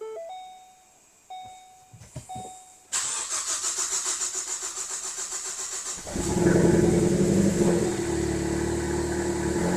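Three short beeps about a second apart. Then the starter cranks the 2015 Ford Focus ST's 2.0-litre EcoBoost turbo four for about three seconds before it catches and runs at a steady idle. This is the engine's first start after a cylinder head and timing chain replacement, and it runs without trouble.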